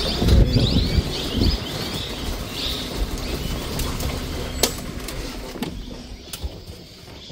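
Small birds chirping: quick runs of short falling notes during the first second and again about two and a half seconds in. A low rumble is heard in the first second and a half, and a few sharp clicks follow later.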